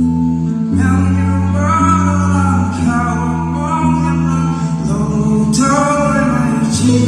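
Gospel song with male and female voices singing over sustained instrumental chords; the voices come in about a second in.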